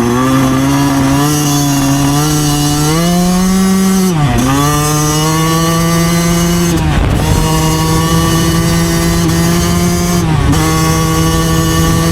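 2009 Yamaha YZ125's two-stroke single-cylinder engine running hard at steady revs. The revs dip briefly and pick back up three times, about four, seven and ten seconds in.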